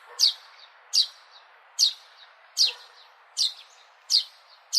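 A sparrow chirping: a string of short, sharp chirps, each a quick falling note, about one every 0.8 seconds, over faint outdoor background noise.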